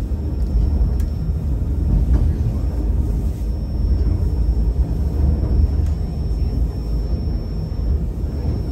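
Steady low rumble of a narrow-gauge passenger train running on the track, heard from inside the coach.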